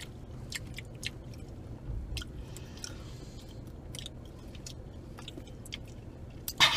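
Mouth clicks and wet, sticky chewing of Fruit by the Foot fruit leather, with a short, louder noisy burst near the end.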